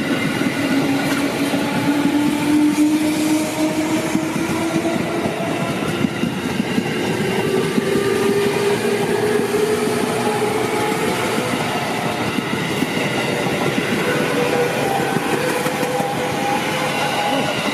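Train passing close at speed, its wheels running loud and steady over the rails, with ringing tones that slowly rise in pitch through the pass.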